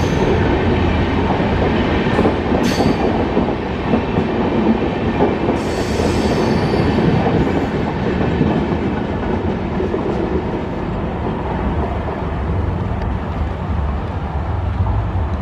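Express passenger train rolling into a station and slowing, a steady rumble of wheels on rails with brief high-pitched squeals about three seconds and about six seconds in.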